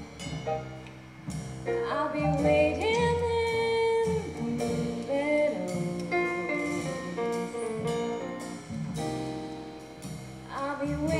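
A song playing: a singing voice holds long notes over instrumental accompaniment.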